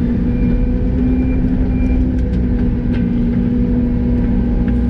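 Yanmar ViO80 excavator's diesel engine running at a steady pitch under work, with a faint higher whine for the first couple of seconds and a few light clicks.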